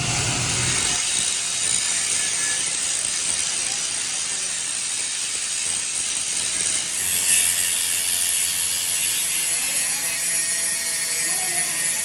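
Steady mechanical noise of metal being machined or worked in a repair shop, shifting to a higher, brighter sound with a low hum about seven seconds in.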